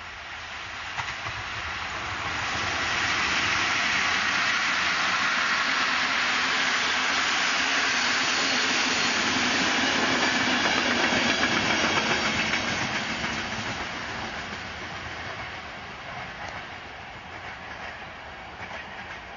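Passenger train hauled by an electric locomotive passing by: the rushing, rattling noise of the coaches' wheels on the rails swells over the first few seconds and holds while the coaches go past. It then fades as the train draws away, with faint clicks near the end.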